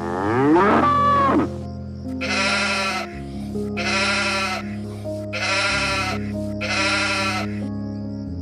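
Bleating: a loud rising, warbling cry at the start, then four quavering bleats about a second and a half apart, over background music.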